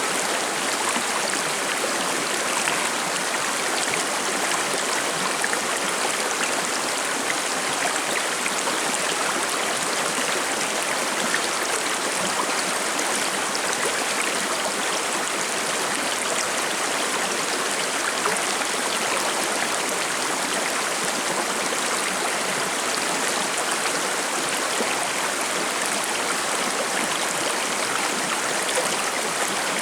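Forest river flowing and babbling over rocks, a steady rushing hiss with no change.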